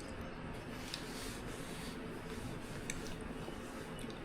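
A few faint clicks of cutlery against dishes over low, steady room noise.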